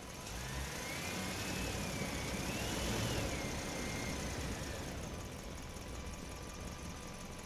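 An engine running and revving, its pitch rising and falling twice as it swells in loudness and then fades.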